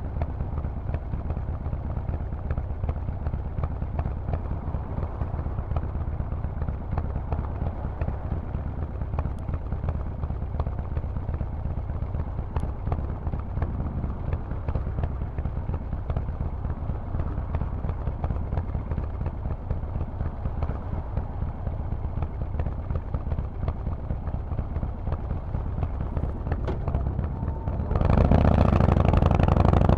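Harley-Davidson Forty-Eight's air-cooled 1200 cc V-twin idling through a Vance & Hines exhaust with a steady low, pulsing beat. Near the end it gets suddenly much louder as the throttle opens.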